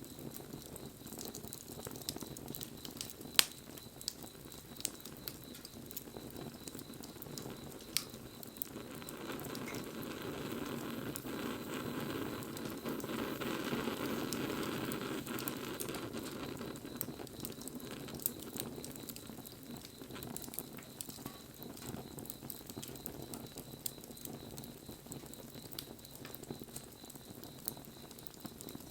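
Wood fire burning with a steady crackle and scattered sharp pops, one loud pop a few seconds in. About a third of the way through, a rushing hiss swells up for several seconds and then dies back.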